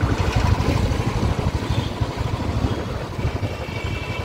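Motorcycle engine running while riding, a low, fast-pulsing beat, with road and traffic noise around it.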